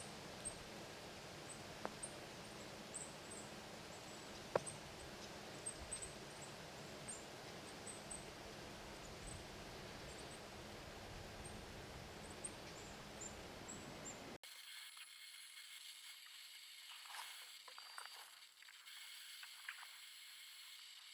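Faint outdoor ambience: a steady hiss with scattered short, very high-pitched chirps and two sharp clicks. About 14 seconds in it cuts abruptly to a thinner hiss with a few crackles. No thunder is heard.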